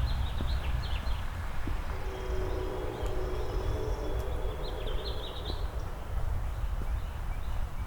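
Songbirds chirping in quick bursts over a constant low rumble, with a steady droning chord of several tones for a couple of seconds in the middle.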